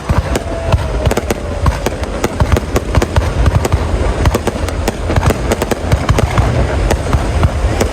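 Fireworks going off in a rapid, irregular barrage: sharp cracks several a second over deep booming thumps.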